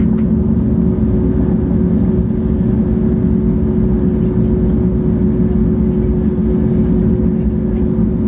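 Steady running noise inside a 700 series Shinkansen carriage on the move: a constant deep rumble with a steady low hum.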